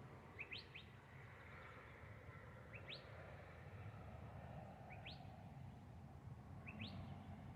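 A bird calling faintly and repeatedly: a short, quick upward chirp, sometimes doubled, about every two seconds, over a low steady background hum.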